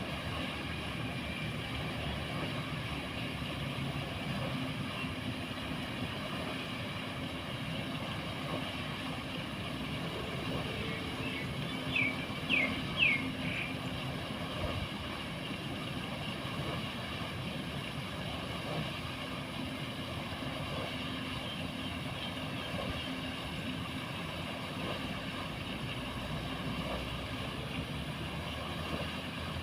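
A steady mechanical hum runs throughout with a low even drone. About twelve seconds in, a few quick high chirps sound, each falling in pitch.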